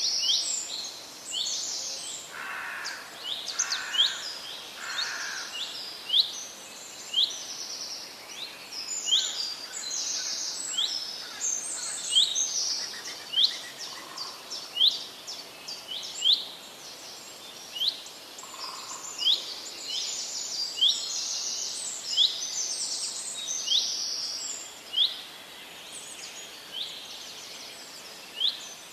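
Several forest birds calling together. One repeats a short, sharp downward chirp about once a second, while others add rapid high trills. A few lower, softer calls come about two to five seconds in and again near the middle.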